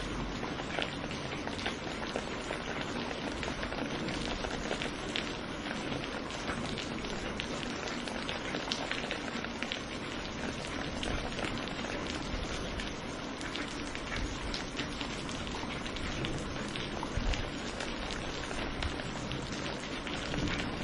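Steady rain falling, with many scattered individual drop hits over an even hiss.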